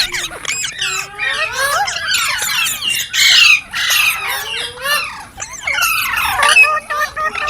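Green parrot chirping and squawking: a rapid, unbroken run of short calls that rise and fall in pitch, with louder squawks about three and six and a half seconds in.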